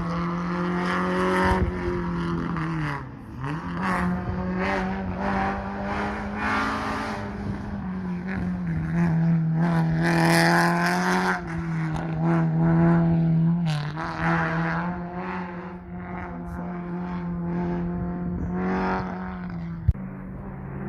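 Ford Escort hill-climb race car engine running hard, revving up in repeated loud surges with short drops in pitch between them.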